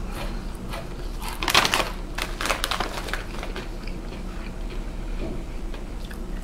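A person crunching and chewing rolled corn tortilla chips (Takis), with a cluster of loud crisp crunches about a second and a half in, then lighter chewing that thins out.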